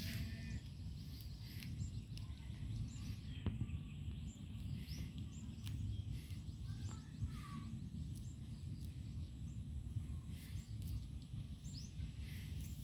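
Outdoor farm ambience: a steady low rumble with scattered short, high bird chirps.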